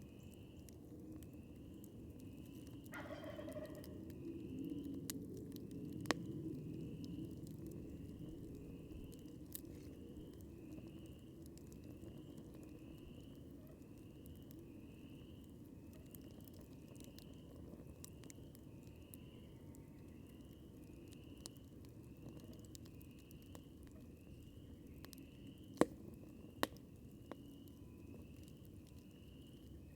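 A wild turkey gobbling once, faintly, about three seconds in, over a steady run of short high chirps at about one and a half a second. A campfire crackles beneath, with sharp pops about six seconds in and twice near the end.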